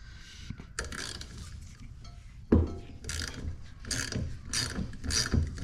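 Hand ratchet wrench working in repeated short strokes, about two a second, loosening a fitting on a 12-volt air compressor. A sharp knock about two and a half seconds in comes before the strokes.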